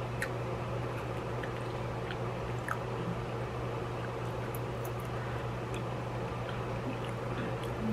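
A person chewing a mouthful of food, with a few faint wet mouth clicks, over a steady low hum.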